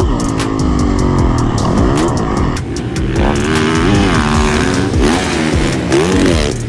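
125 cc two-stroke motocross bike engine revving up and down repeatedly as it is ridden around the track. It cuts off suddenly at the very end.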